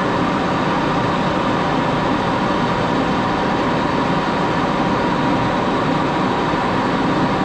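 Axelson lathe running steadily under a light cut, a high-speed steel tool turning a small screw blank; an even machine hum with a steady whine held throughout.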